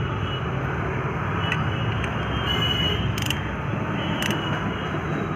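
Engine bolts being tightened with a wrench and E10 star socket to 30 of torque: a few sharp metallic clicks over a steady background rumble of traffic and workshop noise.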